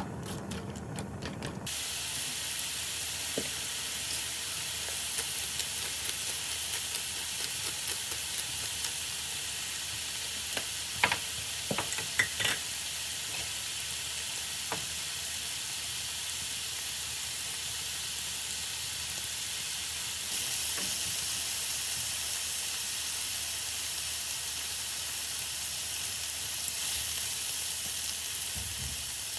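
Food sizzling steadily in a hot frying pan, with a few light clicks of a utensil against the pan about eleven to twelve seconds in.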